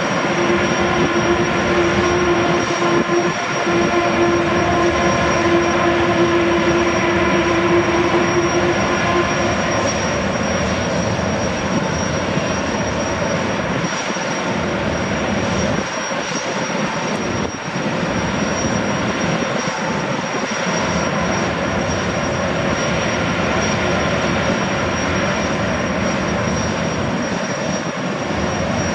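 Loud, steady mechanical noise with a whine that runs throughout, which the uploader takes to be power sanding or grinding aboard a moored car ferry. Beneath it is the faint running of a Boeing 929 Jetfoil's gas turbines as it comes in. A strong low hum fades out about nine seconds in.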